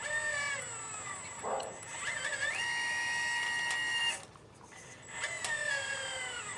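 Remote-control Liebherr 954 excavator model's motors whining in three runs: the pitch sags during the first, holds steady in the second, which cuts off suddenly about four seconds in, and sags again in the last.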